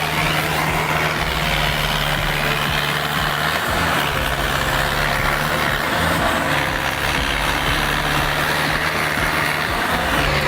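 Heavy vehicle engine running steadily under load in mud, its note dipping briefly a few times.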